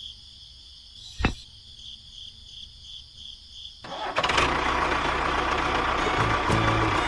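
Engine running with a steady noisy rumble. It drops away almost entirely for the first few seconds, broken only by a single click, then comes back loudly about four seconds in.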